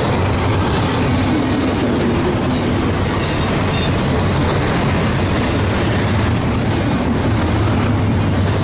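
Freight train rolling past: a steady rumble of wheels on rail with a brief high wheel squeal about three seconds in.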